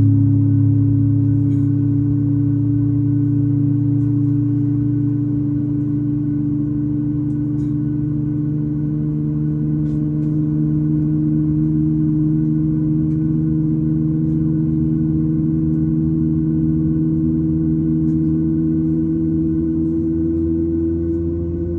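Boeing 737 MAX 9's CFM LEAP-1B turbofan engine spooling up during engine start, heard from the cabin: a steady hum and whine with several tones slowly rising in pitch over a low rumble.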